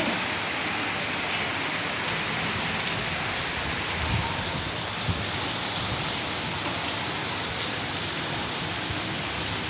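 Heavy rain falling steadily, an even dense hiss of drops with no let-up.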